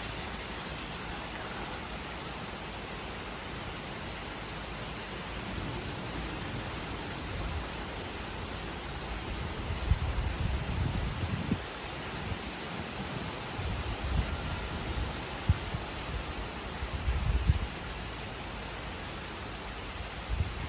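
Steady rain hissing down during a thunderstorm. Irregular low rumbling swells in from about halfway through.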